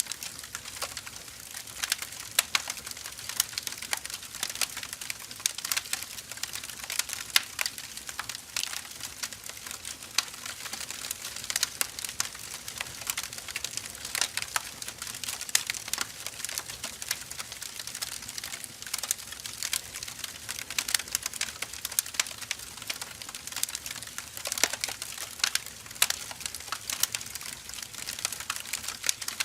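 Firewood logs burning, with dense, irregular crackles and pops over a steady hiss.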